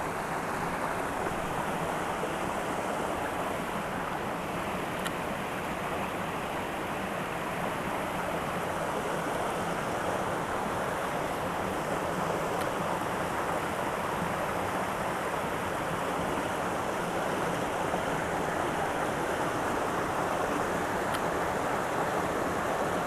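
Small mountain creek running steadily over rocks, a continuous even rush of water.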